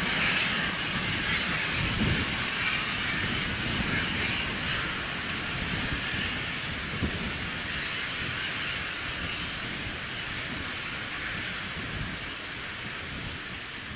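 Steam-hauled freight train running away into the distance, the rumble and rattle of the wagons fading steadily.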